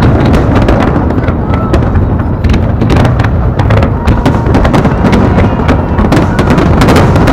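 Fireworks going off in quick succession: many sharp bangs and crackles over a continuous low rumble, busiest about three seconds in and again near the end.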